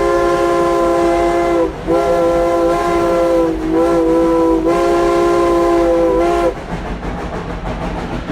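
Chime steam whistle of Dollywood Express steam locomotive No. 192 sounding loudly in long blasts of several notes at once, with brief breaks, stopping about six and a half seconds in. The quieter noise of the train running continues after it.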